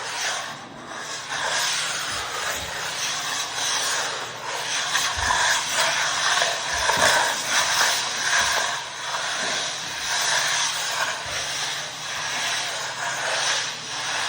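Hard wax oil being worked into a sanded oak floor: a continuous rushing, rubbing noise that swells and fades without a break.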